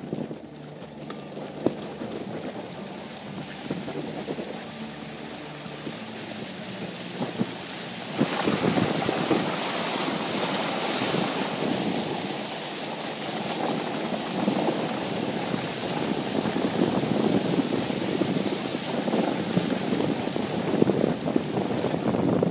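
Wind in 60-mile-an-hour gusts buffeting the microphone, with waves breaking against a breakwall and a vehicle's engine running underneath. The wind and surf noise jumps much louder about eight seconds in and stays loud.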